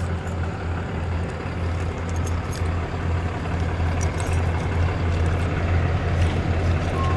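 Car engine running with a steady low drone, getting slightly louder toward the end.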